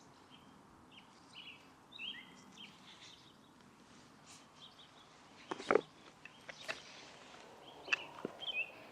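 Birds chirping in short, high, repeated calls at dusk, with a few sharp cracks about five and a half seconds in and again near the end.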